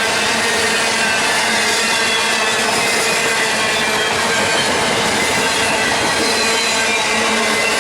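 A train rolling past at steady loudness: wheels running on the rails, with thin, high wheel squeal over the rumble.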